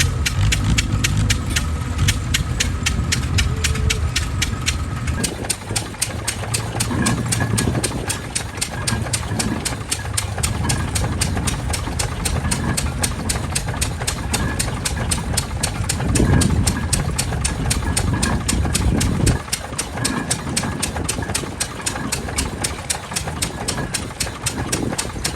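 A vintage engine running steadily with a fast, even knocking beat.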